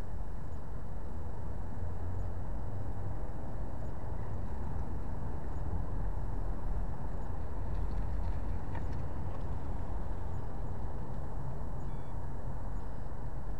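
Car engine idling: a steady low rumble that does not change.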